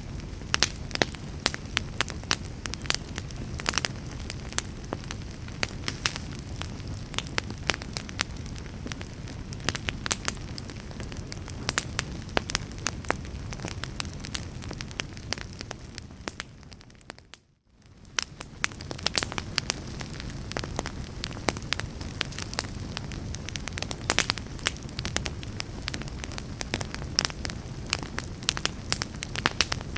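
Wood log fire crackling in a fireplace: frequent sharp pops and snaps over a steady low rumble of the flames. About halfway through, the sound fades away almost to silence for a moment and then comes back.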